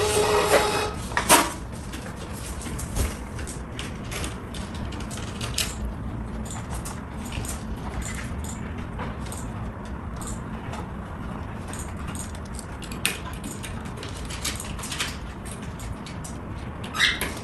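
Light clinks and clicks of kitchen utensils and dishes during food preparation, scattered and irregular, with a louder knock about a second in.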